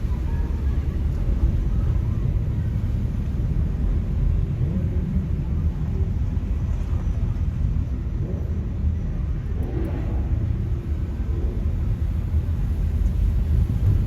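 Steady low rumble of street traffic, with cars and trucks idling and rolling along a busy boulevard.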